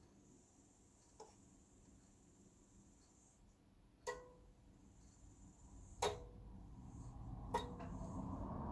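Handling noise during a projector teardown: four sharp clicks of small hard parts knocking together, the louder ones with a short metallic ring, then a low rustle of the unit being handled that grows near the end.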